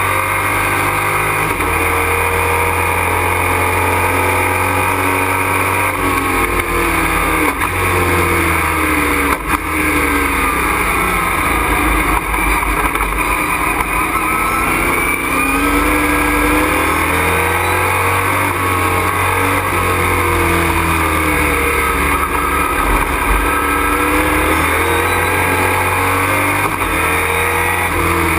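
Racing truck's engine heard from inside the cockpit at speed, the revs climbing and dropping again and again through gear changes and corners, over steady road and wind noise.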